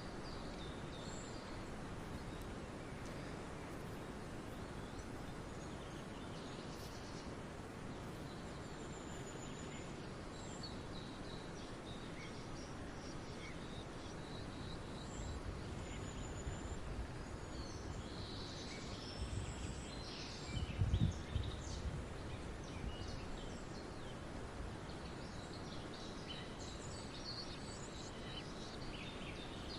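Countryside ambience: a steady background hiss with scattered short chirps and calls of small birds, and a brief low rumble about twenty seconds in.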